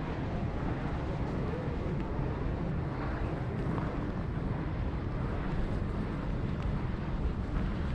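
Wind buffeting the microphone: a steady, rough noise, heaviest in the low end.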